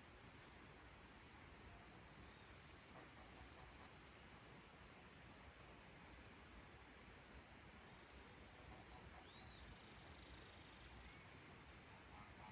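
Very faint countryside dusk ambience: a steady high insect drone with short, high chirps repeating every second or so, and a brief bird-like call about nine seconds in.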